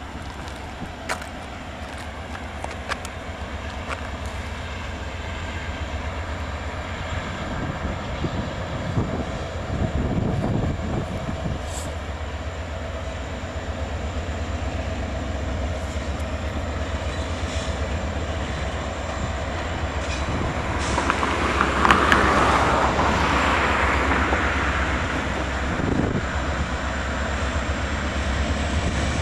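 Freight train led by several diesel locomotives approaching, the rumble of engines and wheels growing louder. A louder rushing noise swells up about three-quarters of the way through.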